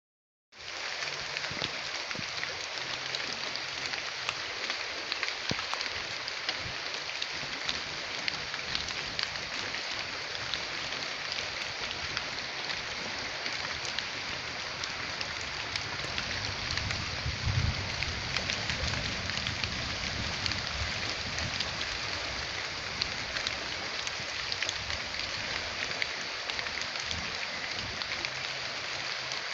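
Steady, heavy rain falling, a dense hiss of countless drops pattering. A low rumble swells briefly about halfway through.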